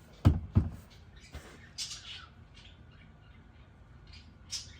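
A heavy fossil-bearing stone slab set down with two solid thuds in quick succession, then a lighter knock. A bird chirps briefly a couple of times afterwards.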